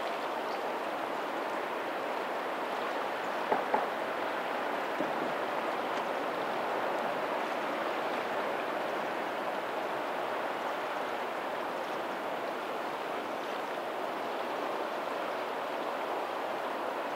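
Tidal outflow water running steadily over a pebbly lagoon shoreline, an even rush of water. Two short sharp clicks come about three and a half seconds in.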